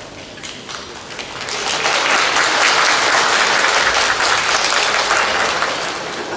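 Audience applauding. The clapping swells about a second and a half in, holds, then fades away near the end.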